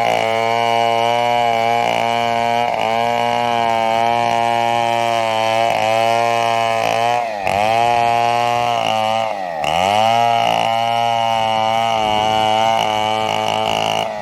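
Two-stroke chainsaw running at high revs while cutting a fallen coconut trunk for coco lumber. The engine pitch wavers slightly, and twice, about halfway through and again a couple of seconds later, it drops sharply and climbs back.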